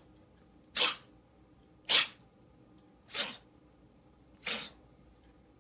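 A pet animal sneezing repeatedly: four short, sharp sneezes a little over a second apart, the last two quieter.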